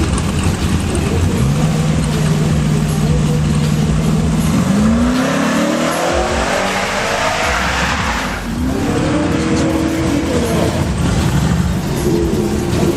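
Drag-racing engine held at a steady pitch, then climbing in pitch as the vehicle accelerates. It breaks off briefly about eight seconds in and climbs again.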